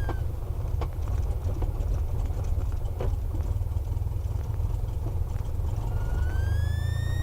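Cessna 172R's four-cylinder Lycoming engine idling at the end of the pre-takeoff run-up: a steady low rumble with a few faint clicks. About six seconds in, a thin whine rises and then holds as the engine speed picks up a little.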